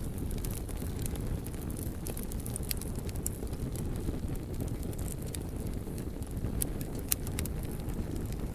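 Wood fire burning: a steady low rumble of flames with scattered crackles and pops from the burning wood, one sharp pop about seven seconds in.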